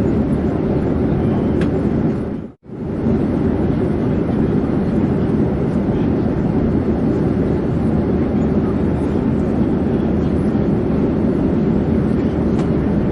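Airplane in flight: a steady, dense low rumble of engine and airflow noise. It dips briefly to silence about two and a half seconds in, then resumes unchanged.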